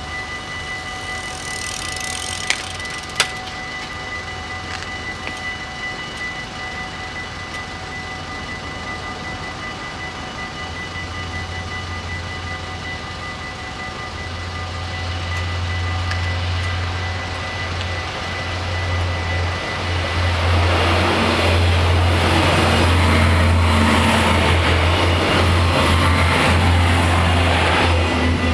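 Dutch level-crossing warning bells ringing steadily. A Stadler GTW diesel railcar approaches and, from about twenty seconds in, runs loudly through the crossing with engine rumble and wheel noise over the bells.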